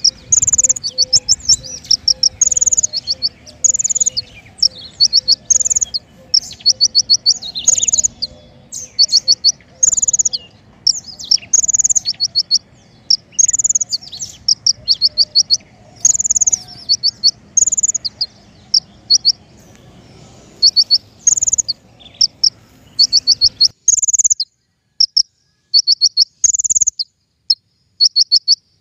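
King konin bird song repeating short, rapid runs of high chirping notes in quick succession, the kind of call played to tutor or lure the bird. A low background hum under the chirps stops suddenly about 24 seconds in.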